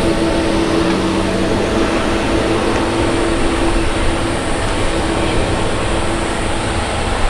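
Jet engines of a Boeing 777-200 running: a loud, steady roar with faint humming tones and no sudden events.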